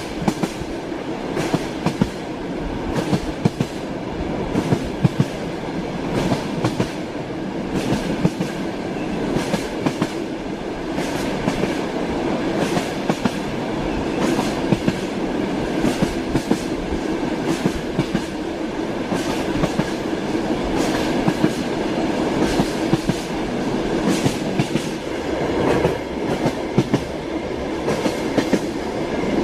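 Train wheels clattering over rail joints inside a moving railway carriage: a steady running rumble with frequent, uneven clicks.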